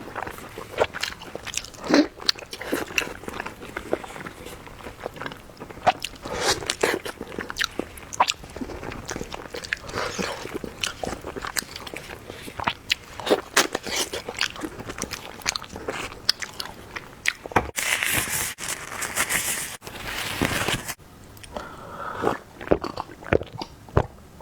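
Close-up eating sounds: food being bitten and chewed with wet mouth clicks and crunches. Late on there is about three seconds of hissing noise.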